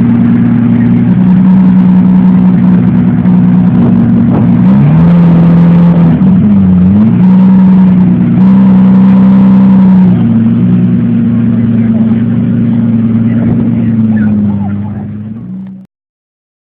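Car engine running loud and close, holding a steady pitch that drops and swings up and down briefly about five to seven seconds in, then fading away and cutting off near the end.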